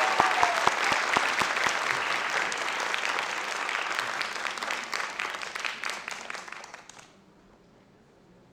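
Audience applauding with many quick claps, dying away about seven seconds in.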